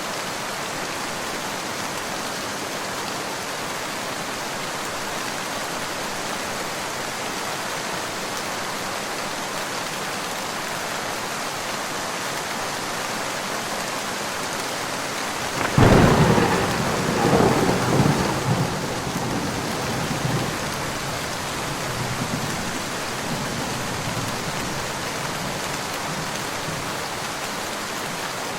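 Steady rain falling, with a thunderclap about halfway through: a sudden sharp crack that rolls on in rumbles for a few seconds before fading back into the rain.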